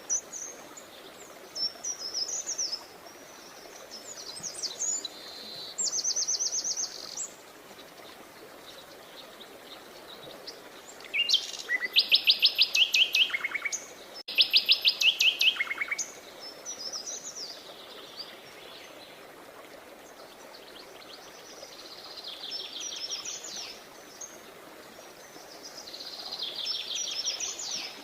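Songbirds singing: a string of high chirping phrases and fast trills, the loudest two rapid trills near the middle, over a steady background hiss.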